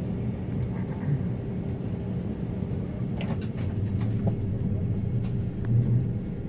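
Steady low rumble and hum inside an Airbus A320 passenger cabin, with a few faint clicks.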